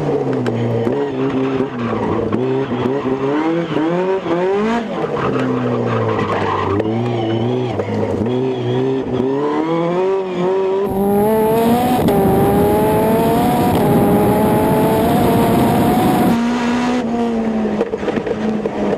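Caterham Seven 620 R's supercharged 2.0-litre Ford four-cylinder engine heard on board under hard driving, its note repeatedly climbing with acceleration and dropping sharply at gear changes and braking. For about five seconds past the middle a loud rushing noise sits over a long, steady climb in revs.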